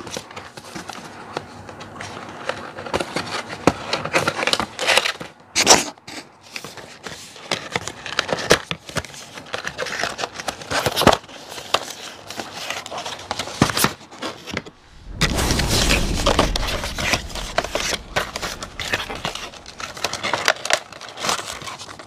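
Cardboard figure box and plastic packaging being handled and opened: irregular scraping, rustling and sharp clicks, with a louder stretch of low rubbing about two-thirds of the way through.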